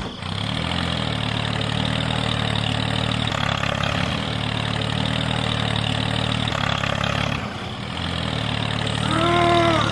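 Engine idling steadily, with a brief dip about three-quarters of the way through. Near the end a short pitched sound rises and falls, the loudest thing heard.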